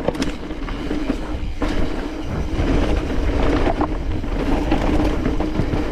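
Mountain bike rolling fast along a dirt trail: a steady rumble of the tyres with rattles and clicks of the bike over bumps, and wind buffeting the microphone.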